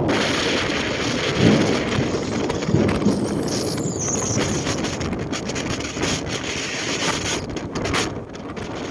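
Strong wind gusting over the microphone with rough sea surf, a dense rumbling roar that dips briefly near the end.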